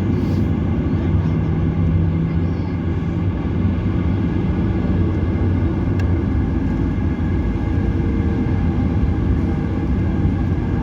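Airliner engines heard from inside the passenger cabin: a loud, steady drone with a low hum and a few steady low tones.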